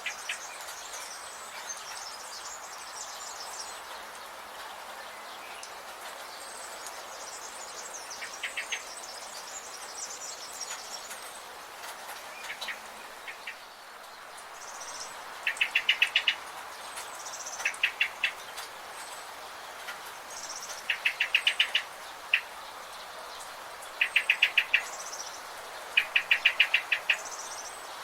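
Forest birds calling over a steady background hiss: thin high chirps in the first half, then from about halfway a loud, rapid trill of clicking notes repeated every two seconds or so.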